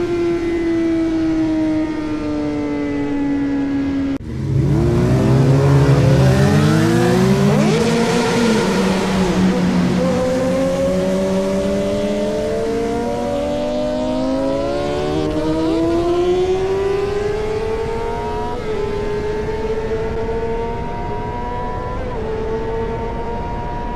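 AI-generated Honda CBR sportbike engine sound. It begins as a steady note sinking slowly in pitch and breaks off sharply about four seconds in. It comes back loudest as several tangled notes sweeping up and down, then settles into one note that climbs slowly with small jumps.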